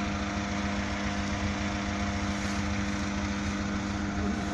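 UAZ off-road vehicle's engine running at a steady, unchanging speed, a constant hum with a rough low rumble underneath.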